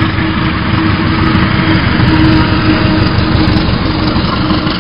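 Passenger train carriages passing close by, their wheels rumbling and clattering on the rails in a loud, steady stream of noise.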